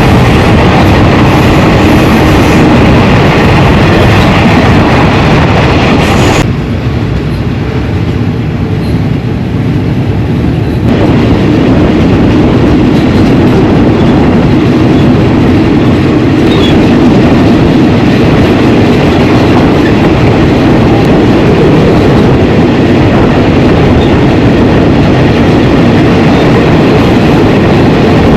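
Passenger train running along the line, heard from on board: a continuous loud rumble and rattle of the wheels and carriage on the track. The upper part of the noise dulls for a few seconds about six seconds in, then comes back.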